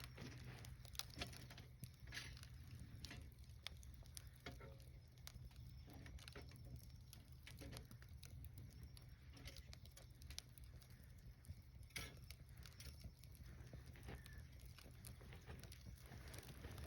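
Wood fire crackling quietly, with irregular sharp pops and snaps, a few louder ones scattered through, over a steady low hum.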